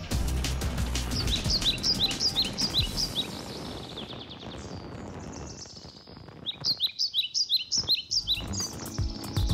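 Birdsong: two runs of quick, high chirps, each sliding down in pitch, separated by a quieter pause in the middle. Soft background music lies under the first run.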